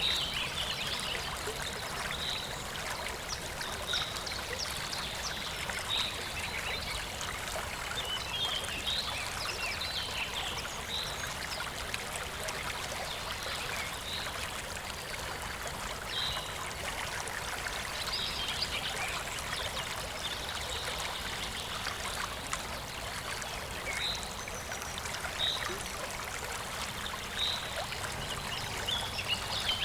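Shallow stream babbling and trickling steadily. Short high chirps repeat about every two seconds over it, with scattered bursts of quicker chirping.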